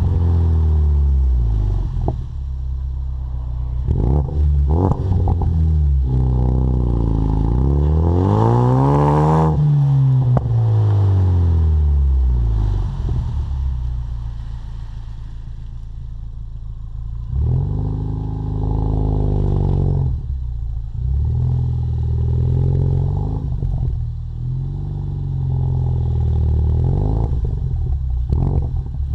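2015 Mustang EcoBoost's turbocharged 2.3-litre four-cylinder running through a Magnaflow Competition exhaust, its pitch climbing and falling as the revs rise and drop several times, with a long climb and fall in the first half.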